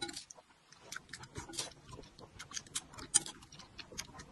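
Close-up eating sounds: a person chewing and slurping dumplings in chili oil, a run of irregular wet mouth clicks and smacks, with one sharper click about three seconds in.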